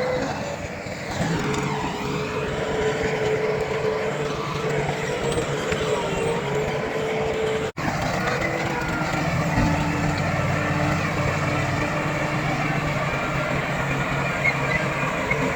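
Heavy diesel earthmoving machinery running steadily: engine drone with a steady whine over it, cutting out for an instant about halfway through.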